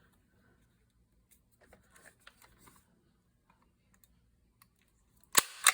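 Light handling of paper and card with faint clicks, then a stapler snapping down twice in quick succession near the end, driving a staple through the paper tab.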